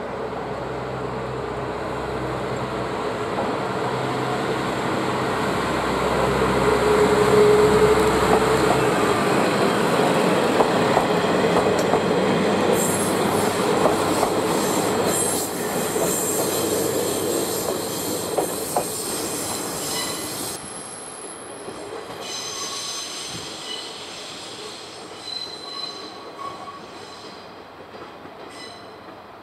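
JR Kyushu's two-car Umisachi Yamasachi diesel railcar pulling out and passing. The engine hum grows louder as it comes by, then the wheels knock over the rail joints and squeal high-pitched through the middle stretch. The sound fades as the train draws away.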